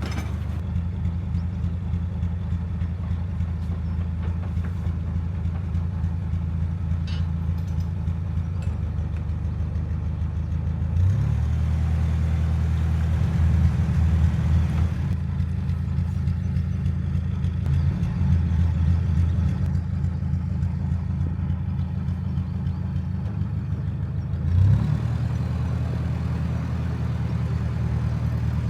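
Narrowboat engine running steadily at low revs. About eleven seconds in it is throttled up and runs louder, the revs shifting up and down. Near the end, after a brief surge, it drops back to a steady tickover.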